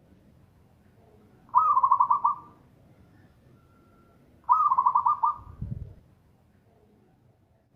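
Zebra dove (perkutut) singing: two short phrases of rapid, rolling coos about three seconds apart. A brief low thump sounds just after the second phrase.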